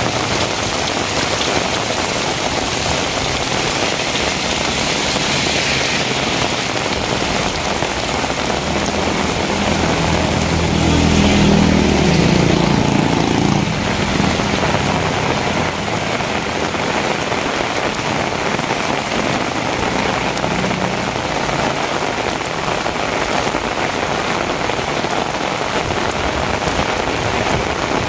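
Heavy rain falling steadily on hard surfaces. A low engine hum swells and fades about ten to fourteen seconds in.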